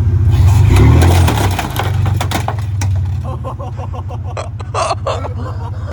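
Off-road vehicle engine running loud, with sharp knocks and rattles over it. It is loudest in the first second or so and eases off a little after about two seconds.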